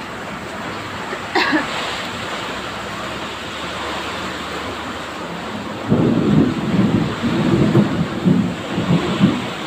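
Heavy tropical rain pouring steadily, with a brief sharp sound a little over a second in. From about six seconds in, loud irregular low rumbling comes and goes: strong wind gusts buffeting the microphone.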